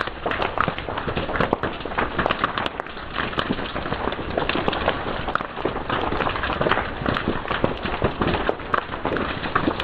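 Fire crackling, with many small irregular pops and snaps over a steady hiss.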